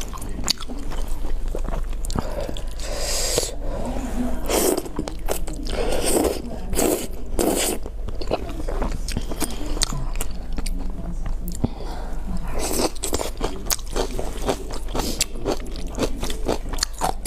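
A person eating close to the microphone: biting and chewing food, with many sharp mouth clicks and short crunchy patches.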